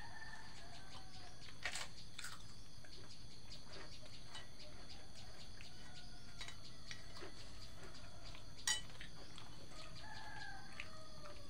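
Roosters crowing, a few drawn-out calls near the start and again near the end, over a steady high chirring of insects. A few sharp clicks cut through, the loudest about nine seconds in.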